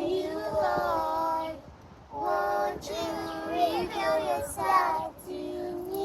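Children singing a song in held, sustained phrases, with a short break for breath about two seconds in.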